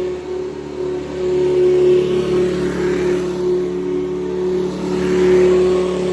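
Hoover U4387 Convertible upright vacuum, with its 5-amp motor and six-blade fan, running with a steady hum that swells and eases every couple of seconds.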